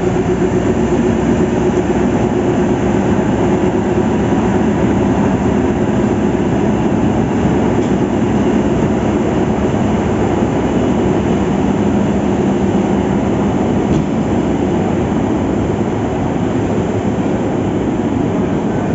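Passenger train running steadily: a continuous rumble with a low, steady hum under it.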